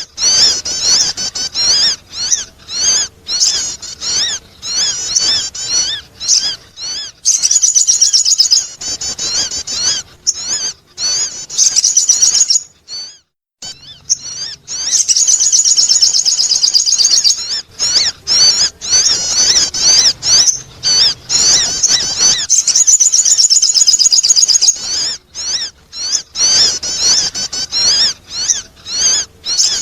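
Sogon bird lure calls: loud, rapid, high-pitched chattering trills repeated in bursts, with a brief pause about halfway through.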